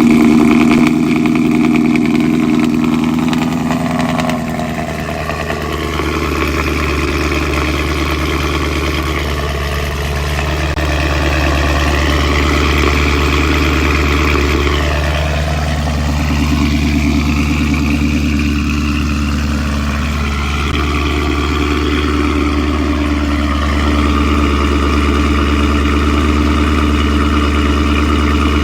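Chevrolet Camaro SS V8 idling after a cold start, its exhaust purring steadily. It runs a little louder and higher at first, then settles to a steady, lower idle about four to five seconds in.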